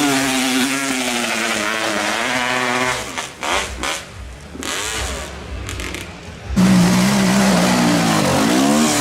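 Dirt bike engine held at high revs, falling away about three seconds in, then coming back loud about six and a half seconds in with its pitch swinging up and down as the throttle is worked.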